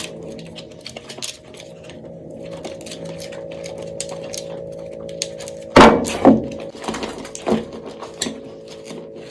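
Bar soap being worked for ASMR: small crisp crackling clicks, a loud hard knock nearly six seconds in, then a few lighter knocks, over a steady low hum.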